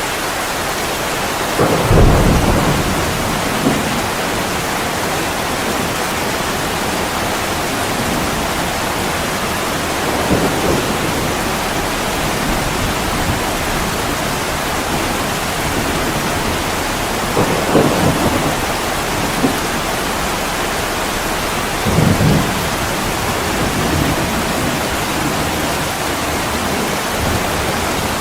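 Heavy rain falling steadily on a window, with low rumbles of thunder rolling in several times; the loudest comes about two seconds in, with others near ten, eighteen and twenty-two seconds.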